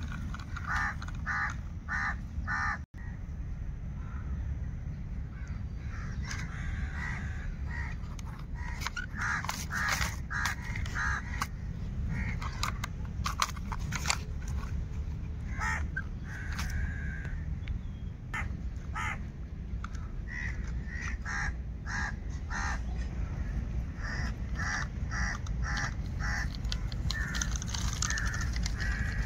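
Birds calling over and over in runs of four or five short calls, over a steady low rumble.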